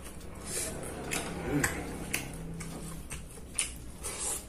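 Close-miked chewing with wet mouth clicks and lip smacks, a few irregular clicks a second, and a brief low hum from the eater about a second and a half in.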